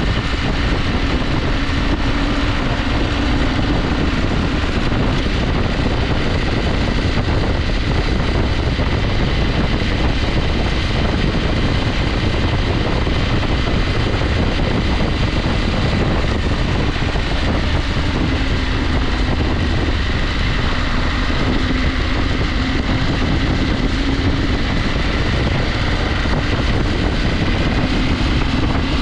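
KTM 890 Adventure's parallel-twin engine running steadily under way, mixed with wind and road noise.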